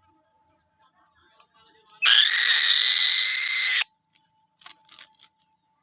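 Falcon giving one loud, harsh screech nearly two seconds long about two seconds in, then a few faint clicks, with a second screech starting at the very end.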